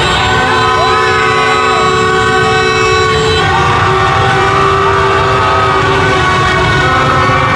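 Many horns honking and blaring over one another without a break: a thick din of steady tones at different pitches, some cutting in and out. A few wavering pitched sounds rise and fall through it.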